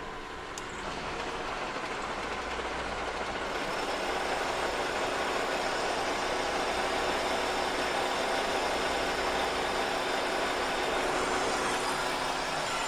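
Kearney & Trecker 2HL horizontal mill running with a face mill cutting cast iron, a steady machine noise with several held tones. A brief click comes near the start, and the cut grows louder about four seconds in.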